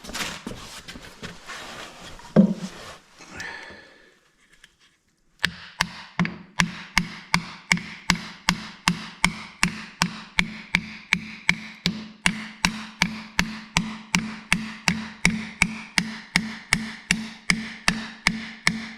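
Irregular metal clatter with one sharp knock, then a long, even run of ringing taps about three a second: a hammer tapping a piston with its rings down through a ring compressor into a cylinder of a Volvo TD100A diesel engine.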